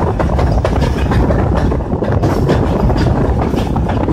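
Passenger train running along the track, heard from an open window of one of its coaches: a steady low rumble of wheels on rail with irregular clicks and clatter throughout.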